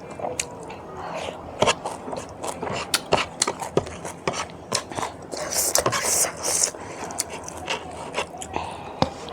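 Close-miked chewing and eating: a string of sharp wet mouth clicks and smacks, with a brief high hiss a little past halfway.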